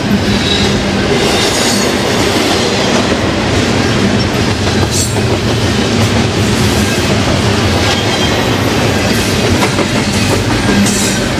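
A BNSF double-stack container freight train passing close at speed: a loud, steady rolling rumble of steel wheels on rail.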